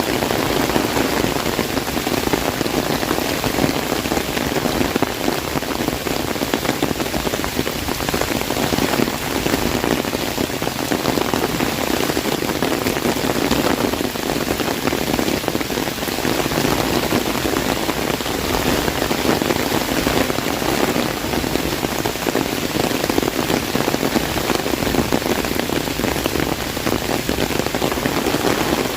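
Heavy rain falling on an umbrella overhead: a dense, steady patter of drops with no letup.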